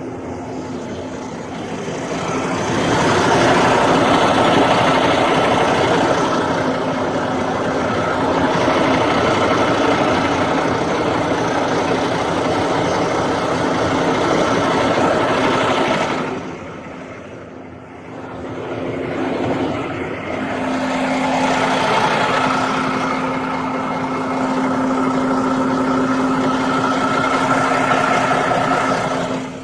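Loud roadside vehicle noise: engines and road rush from traffic, in two long swells with a steady low hum underneath and a dip partway through.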